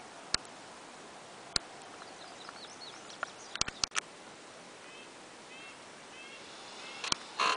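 Songbirds chirping in woodland, with a short chirp phrase repeated several times in the second half, over a faint steady hiss. A few sharp clicks sound through it, and a brief louder noise comes near the end.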